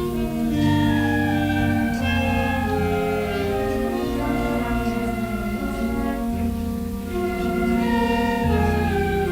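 School band playing a piece of music in sustained, changing chords.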